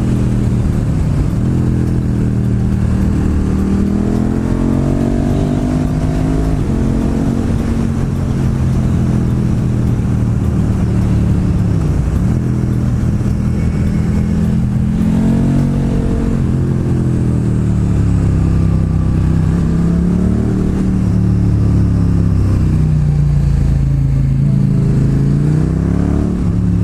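Motorcycle engine running under way, with wind noise over the microphone; its pitch swings up and down with the throttle, dropping and climbing again several times, most sharply about a second in and around the middle.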